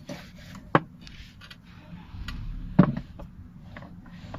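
Steel stove door being shut and its latch worked to test how tightly it clamps closed: a few sharp metallic clicks and knocks, the loudest about a second in and again near three seconds in, with lighter ticks and handling noise between.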